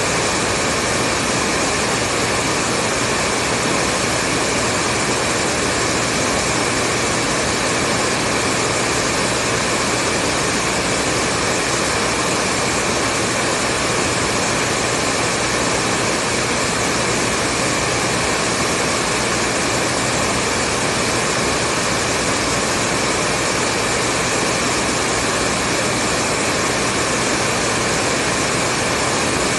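Hair dryer running steadily: a constant whooshing blow of air with a faint motor hum underneath.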